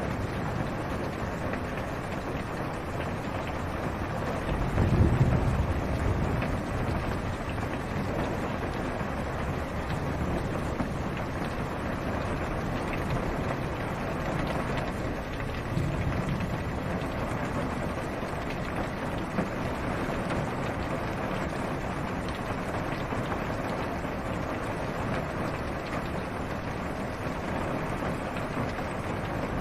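Steady rain falling on a car's roof and windshield, heard from inside the car, with low rumbles of thunder about five seconds in and again around sixteen seconds.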